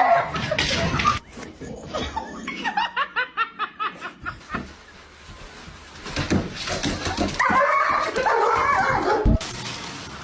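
A person laughing in a quick run of short pulses, mixed with dog vocal sounds. The sound cuts off abruptly twice, as the clips change.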